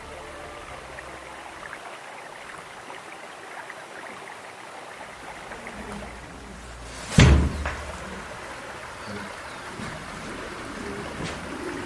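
Steady rushing of stream water, with one sharp, loud thump about seven seconds in.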